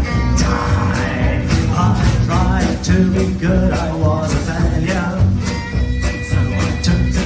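Live band playing a rag, a melody over a strong bass line and a steady beat.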